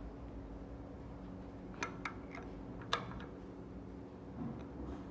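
A few light metallic clicks and taps as engine parts and tools are handled, four in about a second near the middle and a few more near the end, over a steady low hum.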